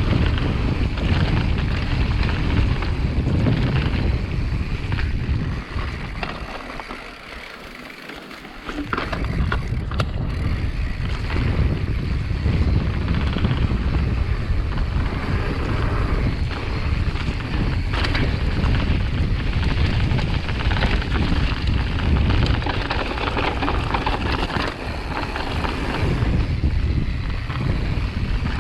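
Wind buffeting the microphone over a steady low rumble, as from a camera carried on a mountain bike riding downhill. A few sharp knocks come through, and it drops quieter for a couple of seconds about seven seconds in.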